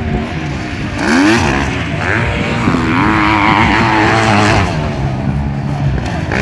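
Motocross bike engines revving hard on the circuit, several overlapping. About a second in, one climbs sharply in pitch as it accelerates, and the engines stay loudest for the next few seconds before easing slightly.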